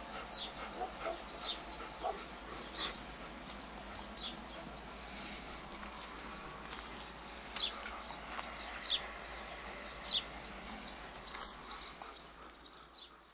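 Short, high-pitched animal calls that fall in pitch, about a dozen of them at irregular intervals, over a steady background hiss.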